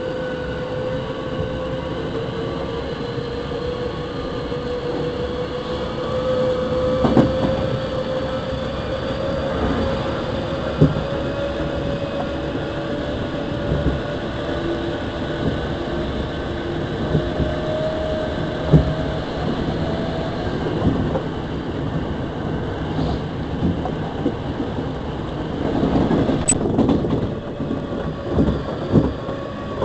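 Hankyu electric train running, heard from inside the car: a steady rumble of wheels on track with a held whine that slowly rises in pitch. A few sharp clicks from the wheels sound along the way, and it grows louder near the end.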